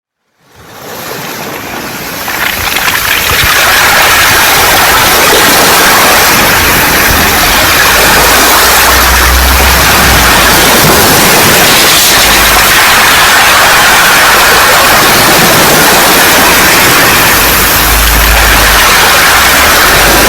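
Surf washing over a beach of round pebbles: a loud, steady rush that fades in over the first few seconds after a moment of silence, with deep rumbles about halfway through and near the end.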